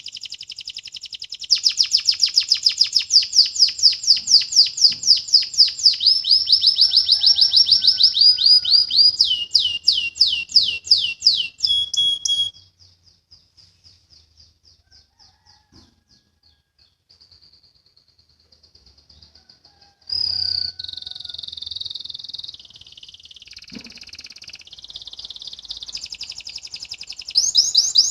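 Domestic canary singing: long, rapid trills of repeated notes, then sweeping notes, going soft for several seconds midway before loud trilling resumes near the end.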